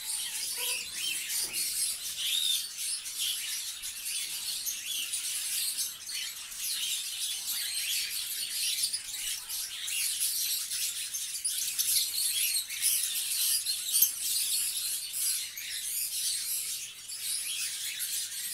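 Many small cage birds chirping and chattering at once, a dense, continuous high twittering with no pauses.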